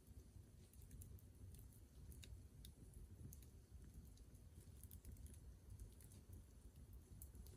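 Faint wood fire crackling: scattered small pops and ticks at irregular intervals over a low, steady rumble.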